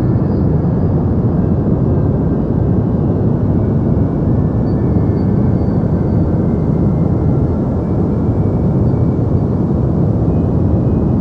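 Deep white noise for sleep: a steady, unchanging rushing hiss with most of its weight low, like a deep rumble.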